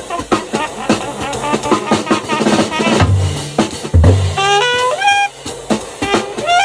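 Small jazz combo playing a swing tune: a horn carries the melody over drum kit and bass, with a run of short rising notes about two-thirds of the way through.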